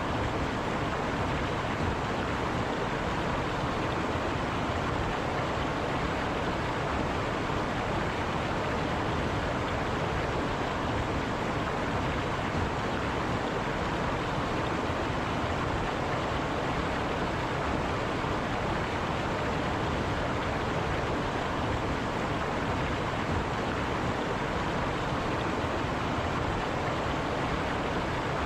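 River water rushing and burbling in a steady, unbroken wash.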